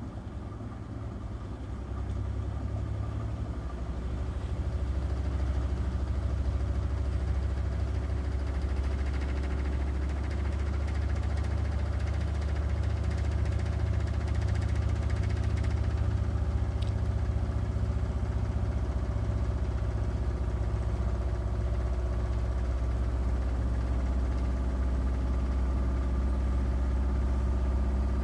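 Miele front-loading washing machine spinning: its low motor-and-drum hum builds over the first few seconds, then runs steadily at speed.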